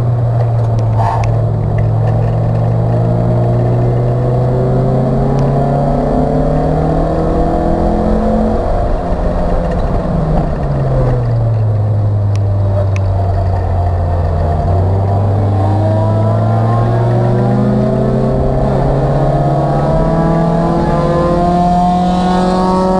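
Acura Integra race car's four-cylinder engine heard from inside the stripped cabin, pulling through the gears on track. It rises slowly in pitch, falls steadily for several seconds partway through while the car slows for a corner, then climbs again under acceleration, with a sharp drop in pitch for an upshift near the end.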